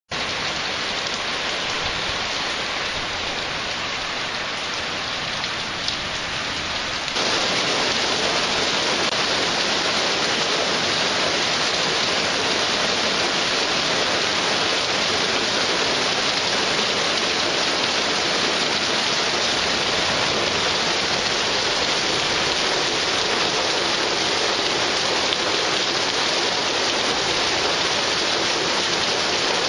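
Sudden heavy downpour: a dense, steady hiss of heavy rain that gets abruptly louder about seven seconds in and stays at that level.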